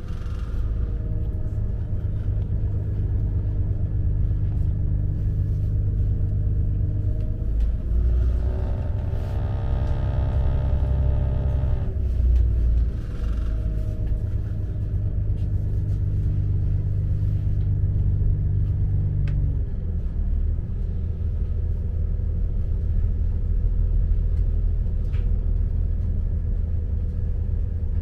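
Diesel multiple-unit train running, heard from on board: a steady low rumble with engine notes that rise about eight seconds in, are loudest for a few seconds, then slowly fall, and the low hum drops a step near twenty seconds in.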